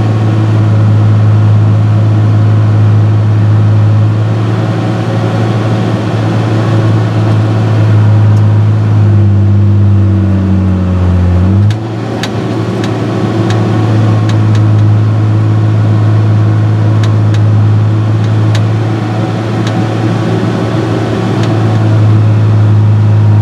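John Deere 6068 six-cylinder diesel engine in a harvester running steadily at a fixed speed. About nine seconds in the engine pulls down under load, then comes back up sharply about three seconds later. A few sharp ticks follow.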